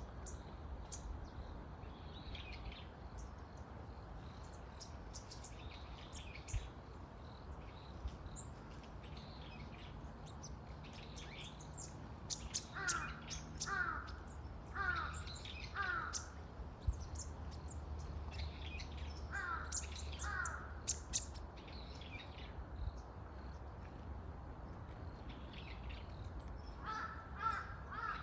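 Birdsong: small birds chirping and twittering throughout. A larger bird gives short, falling calls in series: four in a row a little before halfway, two more a few seconds later, and another run near the end.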